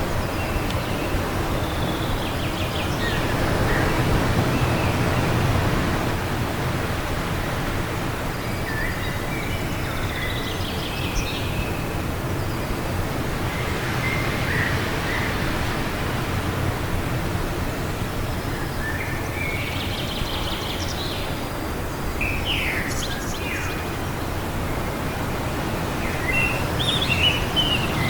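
Steady wind blowing, with scattered bird chirps and short calls coming in small clusters every few seconds.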